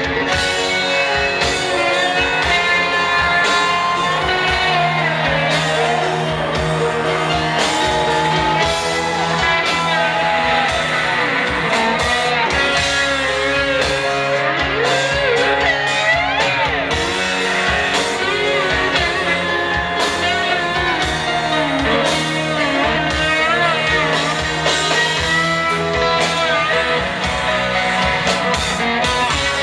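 Southern rock band playing with electric guitars, bass and drums, with sung vocals and bending, gliding guitar lines over a steady band.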